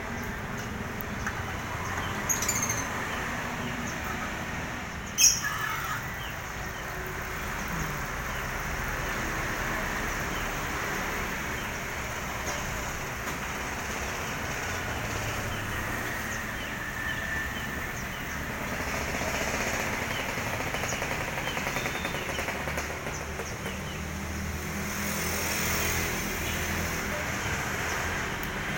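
Small caged songbirds chirping over a steady background hiss, with a sharp click about two and a half seconds in and a louder one about five seconds in.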